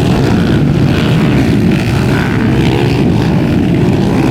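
Several underbone motorcycle engines running hard in a motocross race, a loud steady drone.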